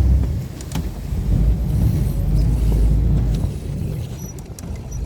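Low rumble of a small ferry boat's engine while the boat is under way, with a couple of faint clicks about three-quarters of a second in.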